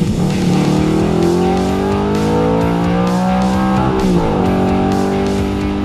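Audi R8's 4.2-litre V8 accelerating hard, its pitch rising steadily for about four seconds, then dropping sharply at an upshift and pulling again.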